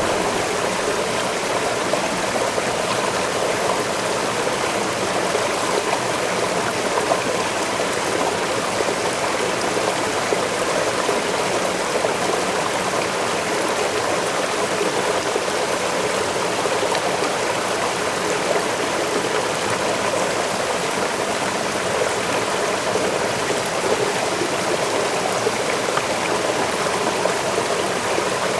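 Waterfall rushing steadily: an even, unbroken wash of falling water, fullest in the mid range, with no separate events.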